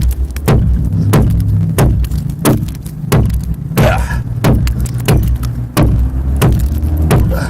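An adze chopping into the pine hull of a dugout canoe: a steady series of sharp strikes, about three every two seconds, over a steady low hum.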